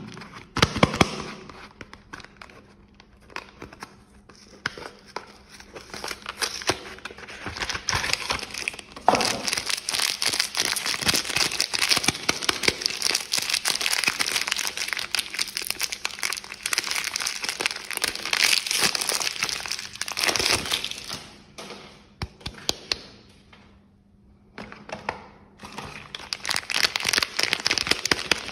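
Soap packaging crinkling and crackling as soap bars are unwrapped by hand, with some tearing; busiest through the middle, dying down briefly near the end before starting again.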